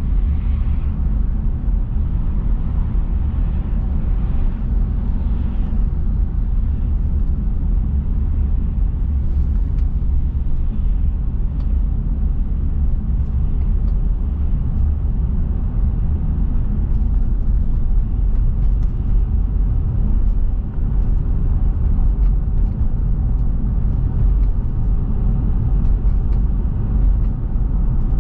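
Car on the move: a steady, deep road and engine rumble, even throughout.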